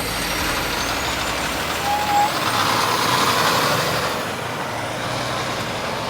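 Diesel semi-truck with a Cummins X15 engine running as it drives off at low speed, its noise swelling about two to four seconds in, then easing off.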